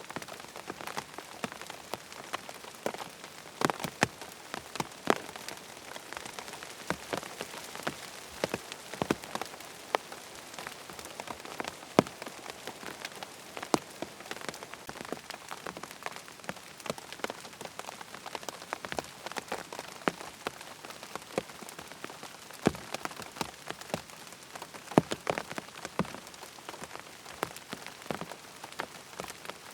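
Steady rain pattering on a tent's fabric, a constant hiss with many separate drop taps scattered irregularly throughout.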